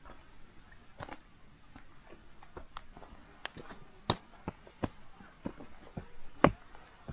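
Footsteps on a forest trail: a run of irregular, sharp steps, the loudest about six and a half seconds in.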